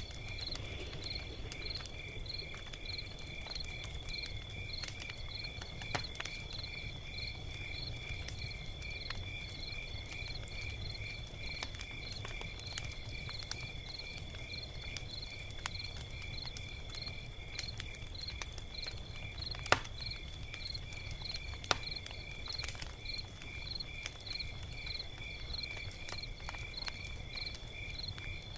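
Log fire crackling, with scattered sharp pops (two louder ones about 20 and 22 seconds in) and a low rumble, over a steady, high, rapidly pulsing insect chorus like crickets.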